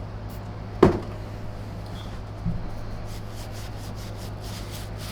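Hands working on vacuum cleaner parts: a sharp click about a second in, a softer knock about halfway through, and light rubbing, over a steady low hum.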